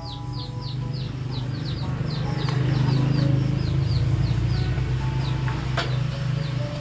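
Small birds peeping rapidly, a quick run of short, high, falling peeps, four or five a second, over a low steady rumble that grows louder in the middle.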